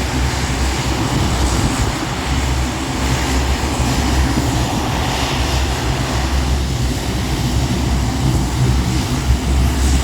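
Four turboprop engines of a C-130 Hercules running steadily, a deep propeller drone with a hiss of engine and air noise over it.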